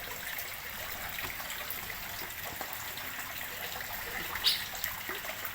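Water running steadily into a fish pond as it is refilled, a continuous trickling flow. A brief sharp high sound stands out about four and a half seconds in.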